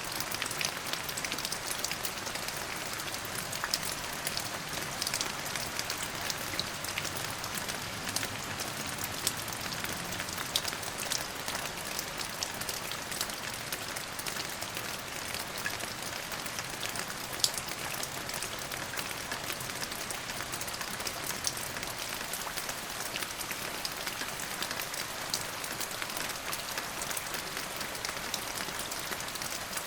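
Steady rain falling, an even hiss studded with the ticks of individual drops hitting a surface.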